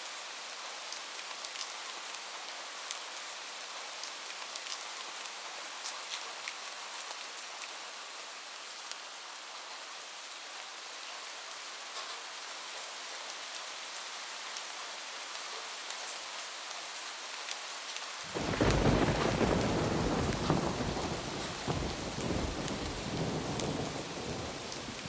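Steady rain pattering on a roof, with scattered sharp drop ticks. About 18 seconds in a thunderclap breaks in suddenly and rolls on as a deep rumble, dying away over the next several seconds.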